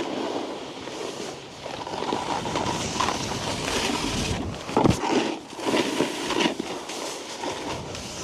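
Snowboard sliding and scraping over snow in uneven surges, with wind on the microphone and one sharp knock about five seconds in.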